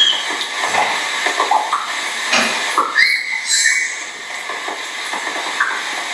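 Field-recorded bird ambience: a steady high hiss with scattered short bird calls over it. The sound changes abruptly about halfway through.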